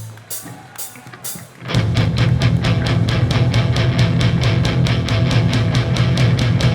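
Live hardcore punk band: the last chord of one song dies away, four sharp clicks count in the next, and about two seconds in distorted guitars, bass and drums crash in together on a fast, driving beat.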